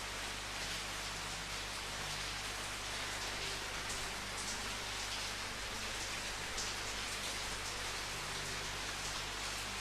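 Steady rain falling, an even hiss of many drops without pause.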